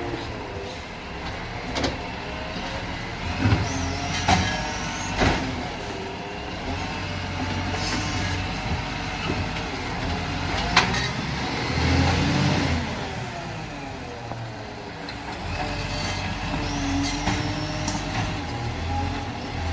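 A garbage truck's engine running, its pitch rising and falling as it revs, with sharp metallic clanks and knocks every few seconds.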